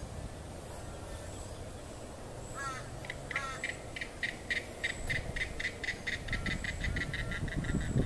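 A bird calling: a brief wavering note, then a long, rapid series of short, evenly spaced notes, about five a second, over a low rumble.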